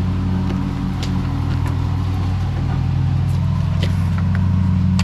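A steady low machine hum, with a few light clicks and snaps from plastic trim clips and fasteners being worked loose.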